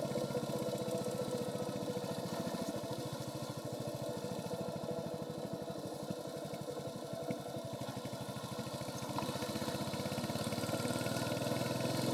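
Royal Enfield Hunter 350's single-cylinder engine running through its stock exhaust under way, with a steady train of firing pulses; it eases off a little in the middle and picks up again near the end.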